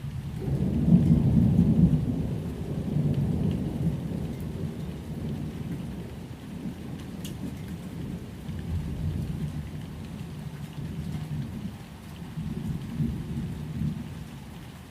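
Rolling thunder over steady rain: a deep rumble that swells about a second in, then slowly dies away.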